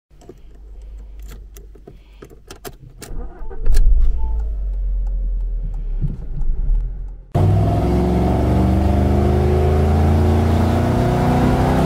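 Car keys jangling and clicking, then a car engine starts about three and a half seconds in and runs with a low rumble. About seven seconds in it cuts abruptly to a louder, steady engine sound of the car driving, heard from inside the cabin.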